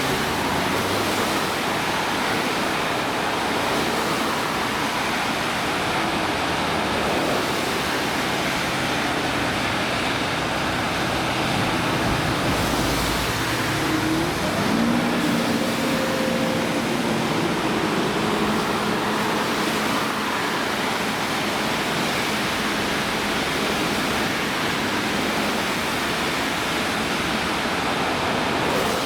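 Heavy rain falling, a steady loud hiss, with road traffic under it; a vehicle engine hum rises briefly about halfway through.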